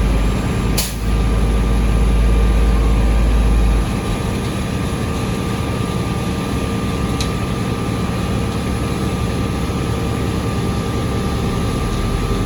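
Heavy diesel paving equipment running steadily, with a deep low rumble that eases off about four seconds in. A sharp click about a second in.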